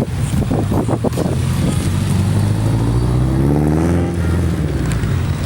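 Car engine running with a loud, low exhaust rumble; the revs climb from about two and a half seconds in and drop back at about four seconds.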